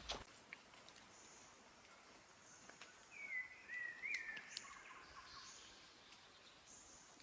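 Quiet rainforest ambience: a steady high-pitched insect drone, with a bird giving a short run of whistled, gliding notes about three seconds in.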